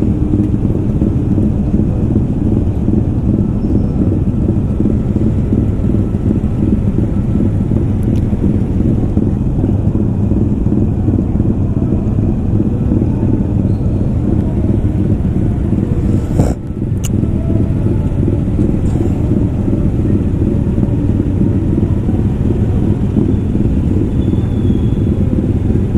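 Small motorcycle engines idling with a steady low rumble at a traffic light, with a brief break in the sound and a sharp click just past the middle.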